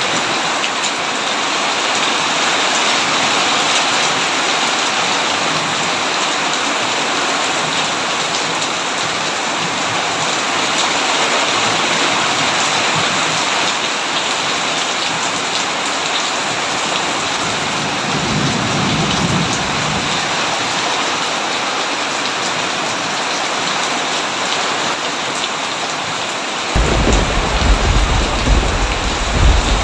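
Heavy rain falling steadily. A low roll of thunder comes about two-thirds of the way in, and a louder, deep rumble of thunder starts near the end and carries on.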